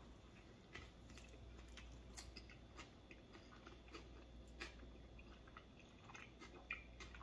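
A person chewing a bite of fish taco with slaw in a flour tortilla, faint and close: small irregular clicks and crunches over a low room hum.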